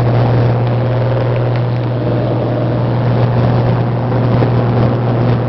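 Cessna 182's engine and propeller running steadily in flight, a loud, even drone.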